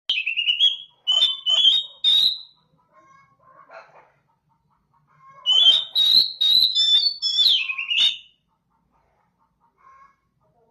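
Oriental magpie-robin (kacer) singing: two bursts of quick, loud whistled notes mixed with sharp clicks, each two to three seconds long, with a few soft notes in the pause between them.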